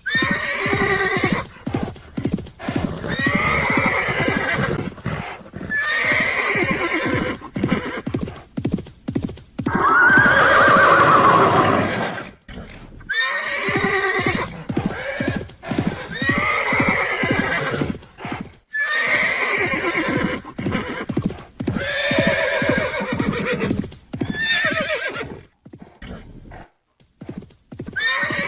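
Horse whinnying over and over, one call after another, with clip-clop hoofbeats. The loudest and longest whinny comes about ten seconds in.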